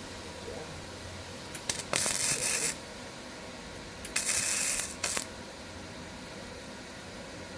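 Welder laying two short tack welds on a mower handle: each starts with a click and runs as a crackling hiss for about a second, the first about 2 seconds in and the second about 4 seconds in.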